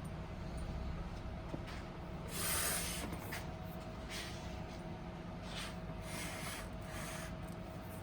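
Wood fire burning, with a steady low hum and short hissing, crackling flare-ups every second or so, the longest about two and a half seconds in.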